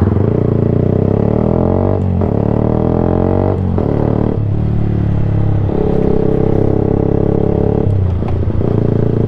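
Yamaha YZF-R sport bike engine running loud through a Black Widow slip-on can with no baffle and the catalytic converter removed. The revs climb through the gears, with short breaks at the gear changes, then hold a steady pitch before a dip near the end.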